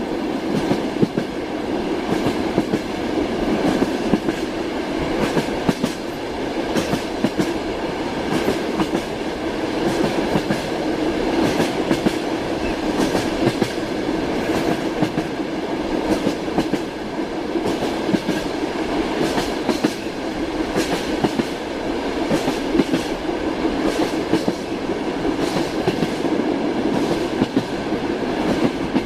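Train wheels clattering over rail joints in a repeated clickety-clack, over the continuous rumble of a moving railway carriage.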